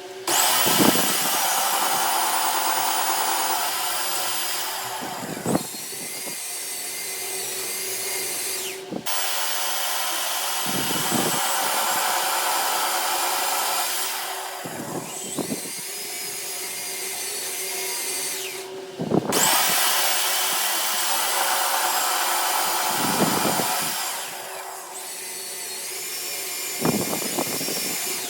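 Electric power tool motor running hard with a high whine. Every few seconds its pitch sags and recovers as the tool is loaded against metal and eased off.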